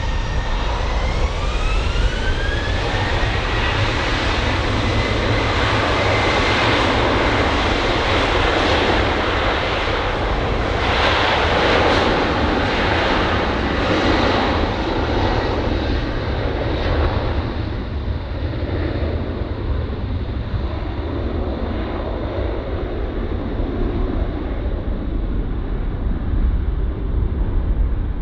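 Airliner jet engines spooling up with a rising whine, then a loud, steady roar that slowly fades.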